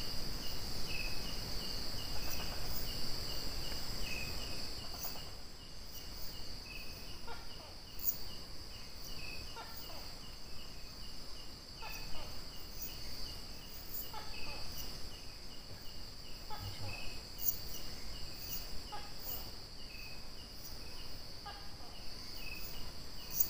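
Night insects: crickets chirping a few times a second over a continuous high-pitched insect drone, with occasional faint short knocks.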